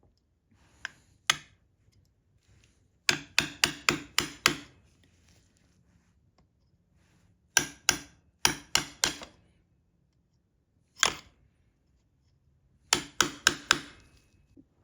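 Hammer taps in quick groups of two to six strikes, about four a second, with pauses of a few seconds between groups.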